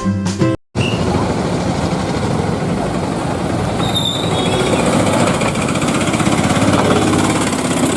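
Music for the first half-second, then after a brief silence a steady, rapid mechanical rattle like an engine running.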